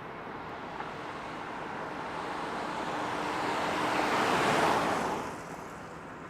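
A vehicle passing close by: the noise of tyres and engine swells over about four seconds, peaks, then fades quickly.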